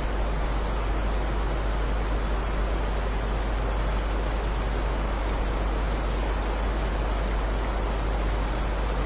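Heavy rain falling steadily: a dense, even hiss with a deep low rumble underneath and no separate drops or thunder.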